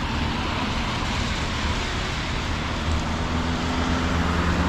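Heavy rain hissing steadily over the low rumble of road traffic, with a faint engine drone coming in about three seconds in.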